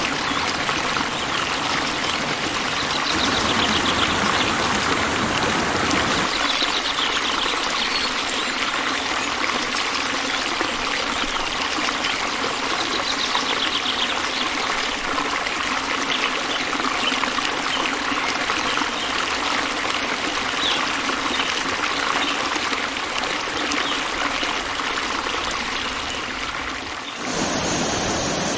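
Steady running water, like a stream trickling and pouring, with a few faint high bird chirps over it. The sound changes abruptly near the end.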